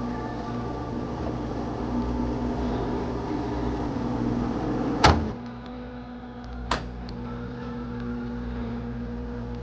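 A steady machine hum with several held tones. About five seconds in a loud sharp clunk sounds and the hum drops lower, and a lighter click follows a second and a half later.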